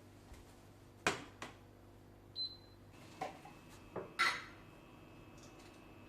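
Several sharp knocks and clicks of objects being handled, spread unevenly, with a brief high beep about two and a half seconds in, over a steady low hum.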